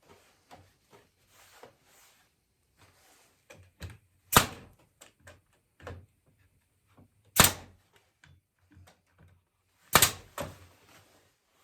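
Pneumatic brad nailer firing three times, about three seconds and then two and a half seconds apart, driving brads into walnut chair parts. Small knocks and clicks of handling the wood come between the shots.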